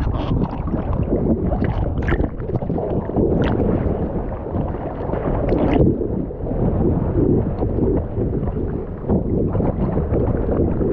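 Seawater sloshing and splashing around a camera at the waterline as a swimmer kicks and strokes through the surf, with a few sharper splashes.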